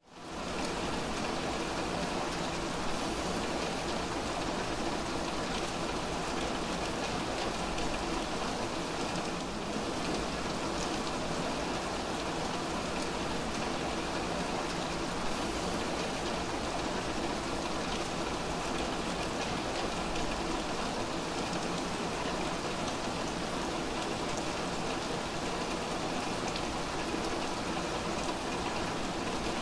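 Heavy rain falling steadily onto a wet street, with water running over the pavement. It fades in over the first half second, then holds an even hiss.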